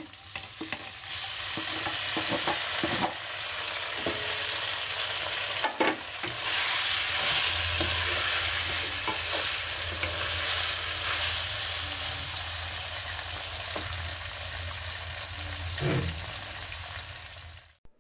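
Paneer cubes sizzling as they shallow-fry in hot ghee in a kadhai, stirred with a wooden spatula. There are occasional knocks and scrapes of the spatula against the pan.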